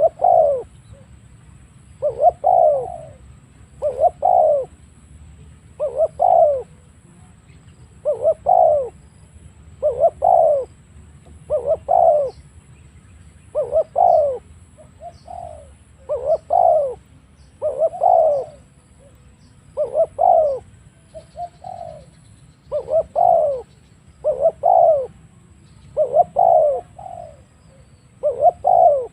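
Spotted dove cooing: loud, low coo phrases repeated about every two seconds, most of them two notes close together.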